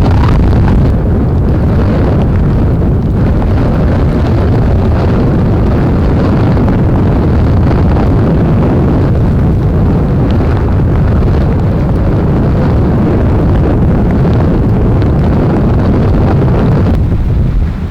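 Antarctic blizzard wind buffeting the microphone: a loud, steady rush of noise heaviest in the low end, dropping and gusting unevenly near the end.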